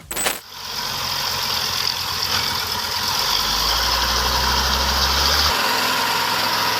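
A heavy truck engine running steadily, with a short sharp knock right at the start and a deeper rumble that swells for a couple of seconds in the middle.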